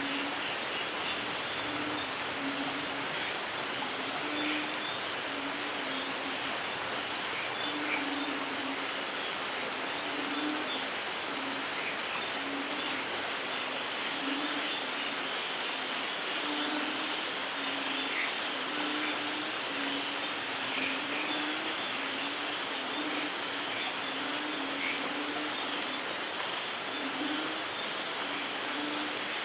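Steady rain falling, with low calls pulsing over and over beneath it and a brief high trill four times.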